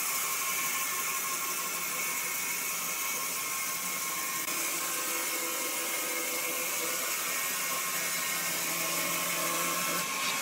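A woodworking machine's motor running with a steady high whir.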